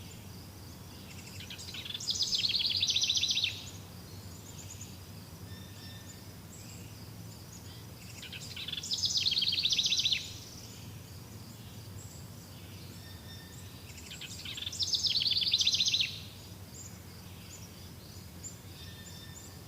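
A songbird sings the same rapid trilled phrase three times, about six seconds apart; each phrase swells and then stops abruptly. Faint steady chirping and a low hum run underneath.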